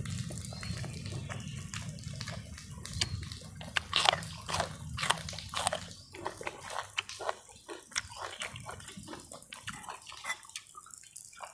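A person chewing beef offal at close range: wet mouth smacks and sharp clicks, many in a row. A low steady rumble underlies the first half and stops about halfway through.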